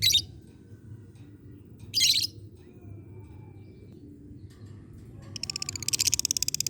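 Lovebird giving two short, sharp high calls about two seconds apart. About five seconds in it breaks into a rapid, even, high-pitched pulsed chatter that keeps going.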